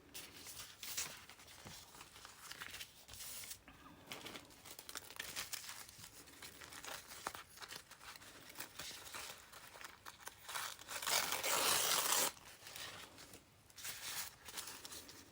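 Paper being torn and crinkled by hand in short, irregular rustles, with one longer, louder tear about eleven seconds in.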